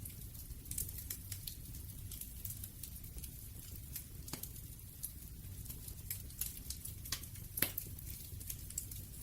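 Wood fire crackling, with irregular small snaps over a low steady rumble and a few louder pops, one near the middle and two close together near the end.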